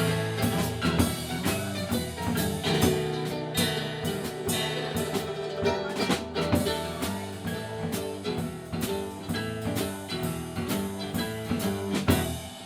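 Live band playing an instrumental break, electric guitar over drums and bass, with no vocals. The band drops down briefly just before the next verse comes in.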